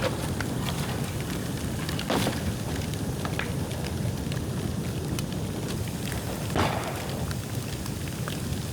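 Bonfire of dry bamboo and bamboo branches crackling, with many small sharp crackles over a steady rushing sound. Two louder pops come about two seconds in and about six and a half seconds in.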